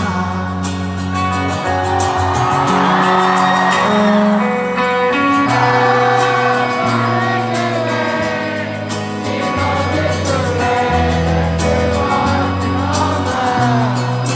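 Live rock band playing the chorus of a song on electric and acoustic guitars, with a large concert crowd singing along loudly as a mass of voices.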